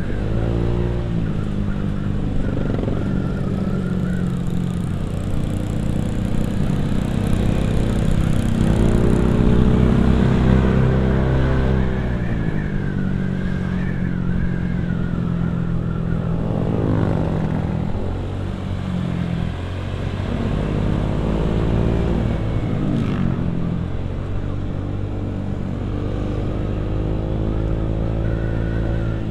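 Motorcycle engine running through a CMS Gen 1 exhaust while riding. Its pitch climbs steadily for several seconds, drops around the middle, then rises and falls a few more times as it accelerates and eases off.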